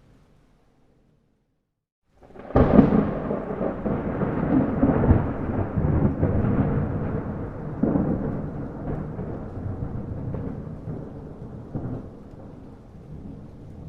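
Near silence for about two seconds, then thunder breaks in suddenly and rolls on in uneven rumbles, slowly fading.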